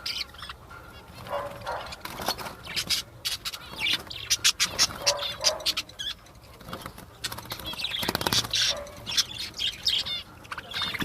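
Several budgerigars chirping and chattering, with bursts of wing flapping.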